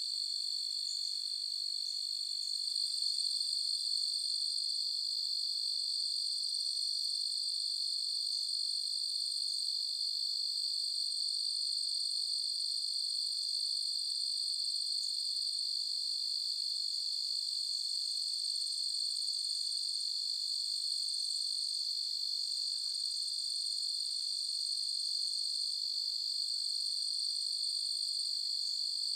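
Crickets chirping in a dense, unbroken night chorus: a steady high-pitched trill that swells slightly about three seconds in.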